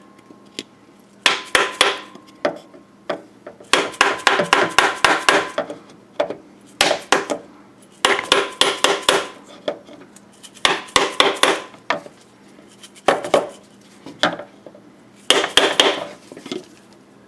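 Hammer tapping a seal driver in seven quick bursts of several sharp, ringing strikes each, with short pauses between, driving a new front crankshaft seal home into the engine's front cover.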